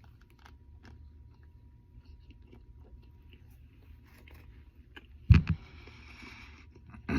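Faint chewing and small mouth clicks of someone eating a burger, then a single sharp thump about five seconds in, followed by a brief hissing rustle.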